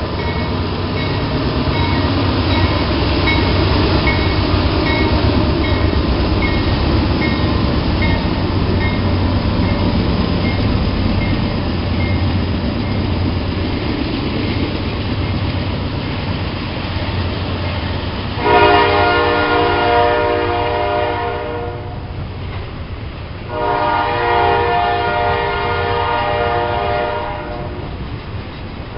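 Diesel locomotives led by a standard-cab GE Dash 9 rumbling past, then a long double-stack container train rolling by with steady wheel-on-rail noise. About two-thirds through, a train horn sounds two long blasts a couple of seconds apart.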